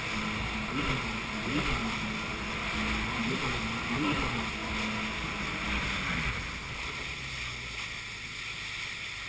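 Jet ski engine running near idle, with several short throttle blips that briefly raise its pitch. It fades out about six seconds in, leaving wind and water noise.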